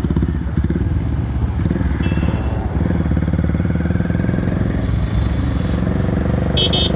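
Bajaj Pulsar 220's single-cylinder engine running steadily through an aftermarket SC Project exhaust, with a brief high-pitched squeak near the end.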